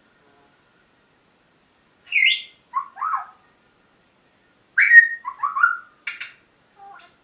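Pet parrot whistling and chattering in short calls: a couple of calls about two seconds in, a louder run of whistles around the middle, then a few fainter chirps near the end.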